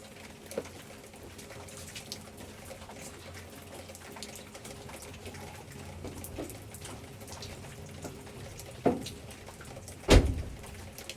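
Light rain dripping and pattering as a steady faint background, broken by a few thumps: one sharp one about nine seconds in, and a louder one about a second before the end.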